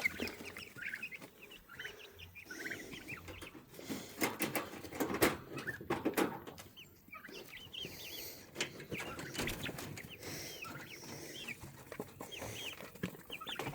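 Baby chicks peeping over and over in a brooder. Several sharp knocks and clatter between about four and seven seconds in, from a feeder or waterer being handled.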